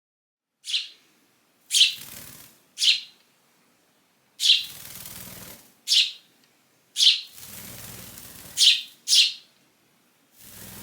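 A young hand-raised sparrow chirping: eight loud, sharp chirps about a second apart, each sliding down in pitch, with soft rustling between some of them.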